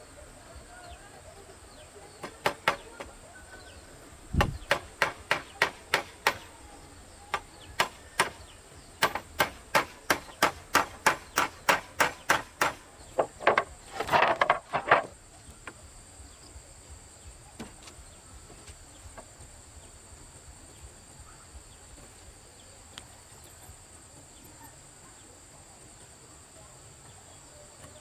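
Repeated sharp strikes of a hand tool on wood, in quick runs of about two to three a second, stopping about halfway through. A steady high insect drone carries on behind.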